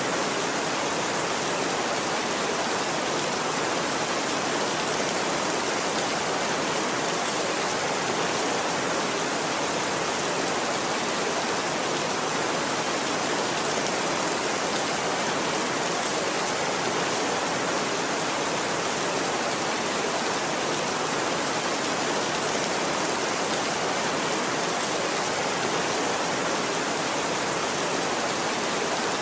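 Steady rain falling, an even, unbroken hiss with no rolls of thunder.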